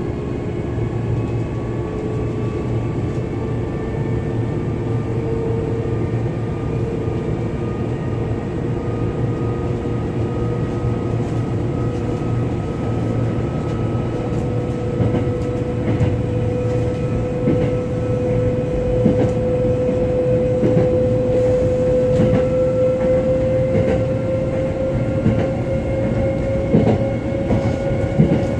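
Hankyu 7000 series electric train running, heard from on board: a low rumble under a whine that climbs slowly in pitch as the train gathers speed, with wheel clicks over rail joints in the second half.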